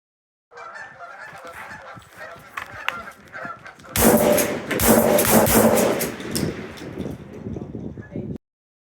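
A flock of Canada geese honking; about four seconds in, sudden loud shotgun fire breaks in, with the honking louder and denser for the next couple of seconds before it fades.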